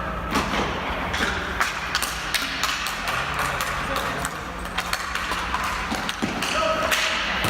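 Ball hockey play: irregular sharp clacks and knocks of sticks and ball, a few every second, over a steady low hum. A brief shout comes near the end.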